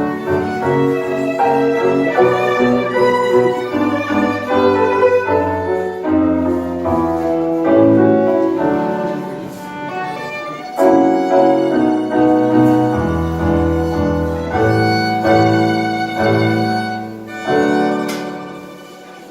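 Live tango music played on violin with piano accompaniment. The piece stops about a second before the end.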